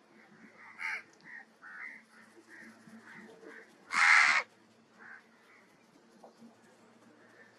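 Outdoor bird calls: a series of short, soft calls repeating throughout, and one loud, harsh call lasting about half a second at about four seconds in.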